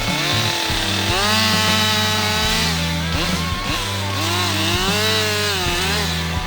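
Gas chainsaw running and cutting, its pitch rising and falling with the load, with background music playing over it.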